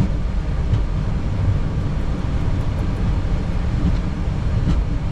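Steady low rumble inside a Boeing 737 cockpit as the airliner rolls on the ground after landing.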